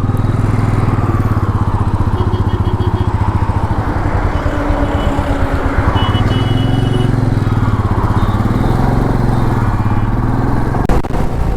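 Motorcycle engine running steadily while riding on the highway, its pitch rising and falling slightly, under a rush of wind and road noise.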